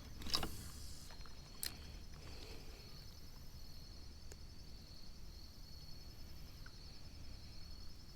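A steady, high-pitched chorus of insects over a low outdoor rumble, with a couple of faint knocks in the first two seconds.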